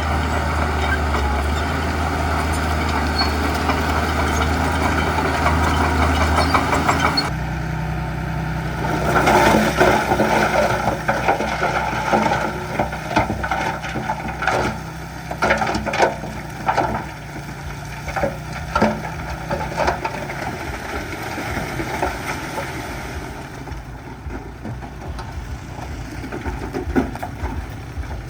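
Heavy diesel engines of earthmoving machinery running. The sound changes abruptly about seven seconds in, then a run of sharp knocks and rattles comes over the engine for about ten seconds before it settles to a quieter steady run.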